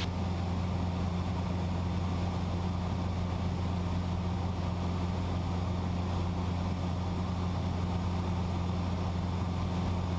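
A Cessna 172's piston engine and propeller running steadily in flight, heard from inside the cabin as a low, even hum that does not change in pitch.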